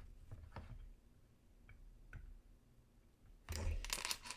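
Faint, sparse clicks of small tools and tiny gemstones being handled at a jeweller's bench, followed near the end by a louder stretch of scraping and handling noise.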